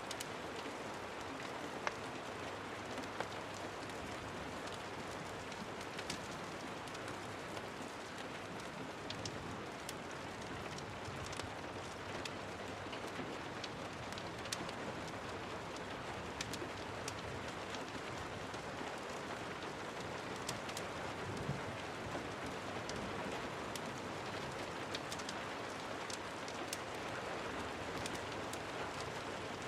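Steady rain falling, with scattered sharp clicks every second or two.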